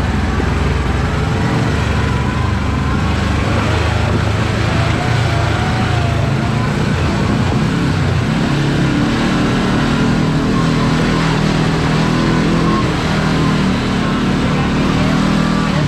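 Kawasaki Teryx KRX4 1000 side-by-side driving along a rough trail: its parallel-twin engine runs steadily under load over a constant rumble from the tyres and chassis, and the engine note changes about halfway through.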